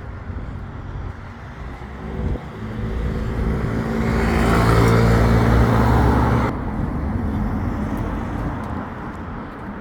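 A road vehicle drives past close by: its engine note and tyre noise build up, are loudest from about four to six and a half seconds in, then drop off suddenly, leaving the steady hum of traffic.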